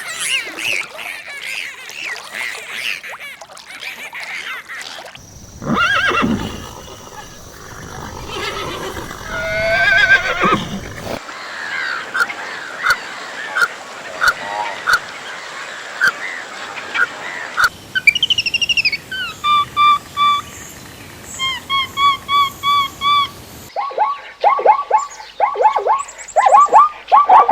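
Calls of several different farm animals one after another, the sound cutting abruptly every few seconds. In the last few seconds, geese honk over and over in quick succession.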